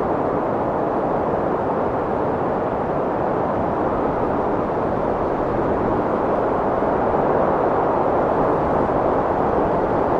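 Strong wind blowing steadily, a dense, even rush with only slight swells.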